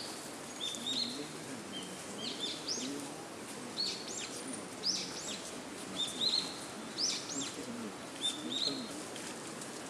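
Small birds chirping in the surrounding forest: short, high calls repeated about once a second.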